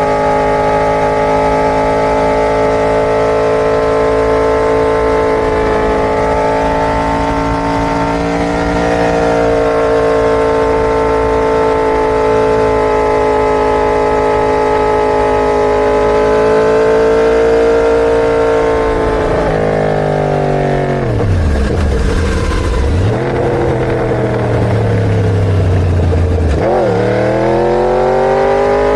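A 1000 cc inline-four superbike engine running at high revs, its pitch held fairly steady with small rises and falls. About twenty seconds in the revs drop sharply, then climb again, dip once more and climb again near the end.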